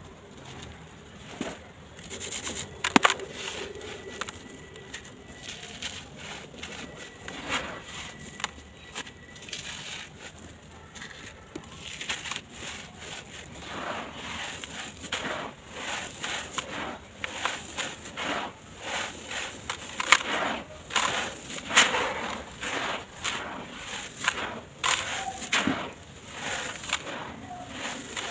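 Dry sand-cement blocks crumbling in a tub: irregular gritty crunches and crackles. They are sparse at first and come thick and fast from about halfway through.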